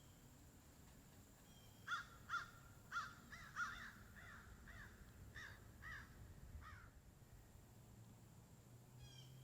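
A bird calling: a quick series of about a dozen short, arched, caw-like calls over some five seconds, the first few loudest. A fainter, higher bird chirp is heard near the start and again near the end.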